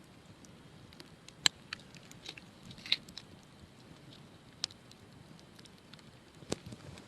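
Wood campfire crackling: scattered sharp pops and snaps, about five clear ones, over a low steady hiss.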